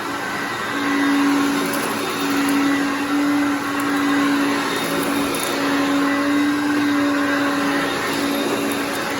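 Hoover Concept One self-propelled upright vacuum cleaner running on carpet: a steady motor hum and rush of air with a constant low tone, its loudness rising and falling a little.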